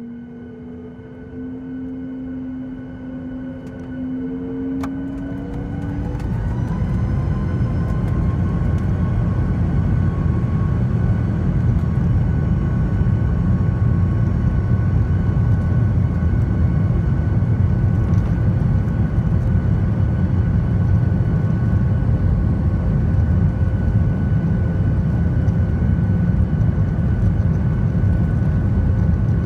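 Boeing 737 MAX 8's CFM LEAP-1B jet engines spooling up for takeoff: a rising whine about five seconds in as the rumble swells, then a steady loud roar at takeoff thrust.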